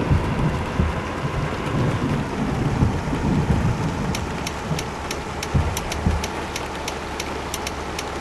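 Truck cab noise while driving: a steady rumble with irregular heavy low thumps and a faint hum. About halfway through, a run of quick light ticks starts, about three to four a second.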